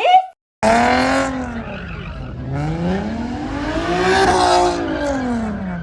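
Truck engine revving up and down over a hiss of tyre noise, its pitch falling, climbing to a peak around four seconds in, then falling again; it cuts in abruptly about half a second in.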